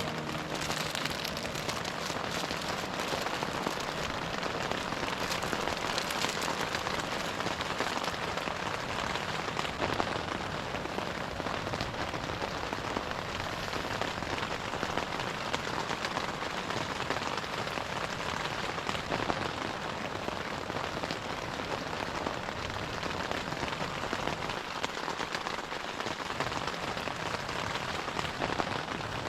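Steady, gentle rain falling: a dense, even patter of many small drops.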